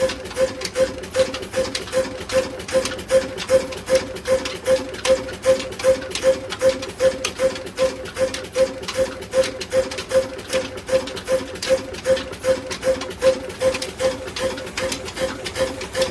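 Stationary diesel engine running at a slow, even beat of about two to three pulses a second while driving a chakki flour mill.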